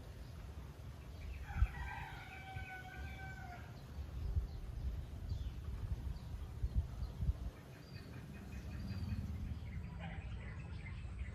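A rooster crowing once, a drawn-out call of about two and a half seconds that starts about a second in, over a low rumble. Faint bird chirps follow.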